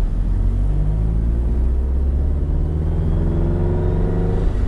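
Scion FR-S's Subaru flat-four engine, with modified exhaust, accelerating: its pitch climbs steadily for about four seconds, then drops abruptly near the end.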